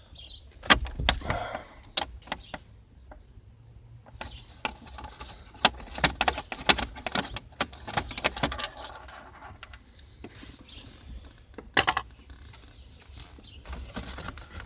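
Irregular small clicks, taps and rattles of a screwdriver and plastic trim pieces being worked while a last screw is taken out of a car's steering-column and instrument-cluster housing.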